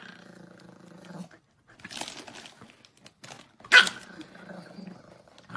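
A dog making low, drawn-out vocal sounds, with one sharp bark about four seconds in.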